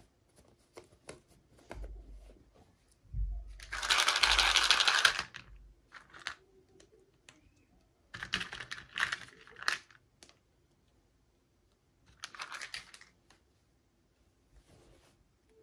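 Hands handling toy packaging: scattered clicks and taps, with three bursts of rustling. The loudest comes about four seconds in, the others near the middle and later.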